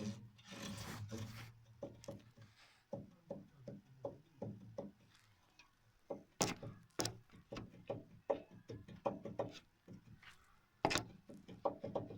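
Knocking from worn, broken beam silent blocks (rubber-metal bushings) in a Renault Megane 2's suspension: a long run of irregular knocks and clunks, a few a second, with a rubbing creak at the start and several sharper knocks later on.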